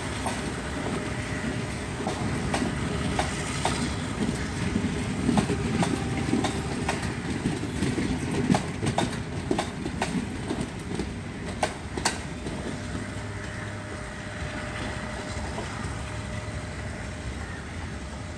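Passenger coaches of an express train rolling past on the rails, a steady rumble with many sharp irregular clicks from the wheels on the track. The clicking stops about twelve seconds in and the rumble fades as the last coaches pull away.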